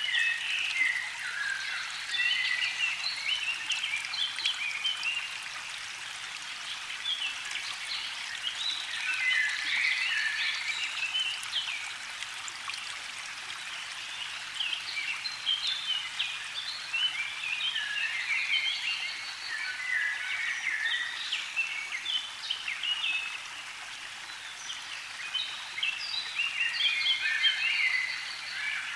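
Songbirds singing: dense bursts of quick, high chirping notes that come in clusters every few seconds.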